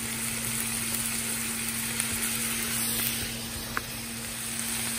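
Sliced elk liver and onions sizzling steadily in a cast-iron skillet, with a low steady hum underneath. A single light click sounds a little before the four-second mark.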